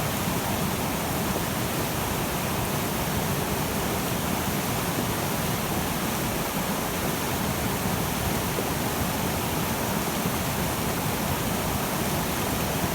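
Glacial meltwater river rushing, a steady, unbroken rush of water.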